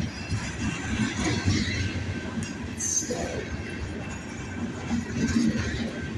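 Freight train of covered hoppers and lumber-loaded flatcars rolling past close by: a steady rumble with the clatter of steel wheels on the rails, and a brief high squeal about three seconds in.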